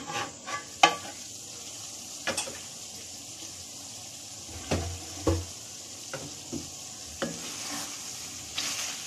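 Okra masala sizzling gently in a wok on a low flame, its aluminium lid lifted off with a clink at the start, then a wooden spatula stirring through the okra and knocking against the pan several times, the two heaviest knocks about halfway through.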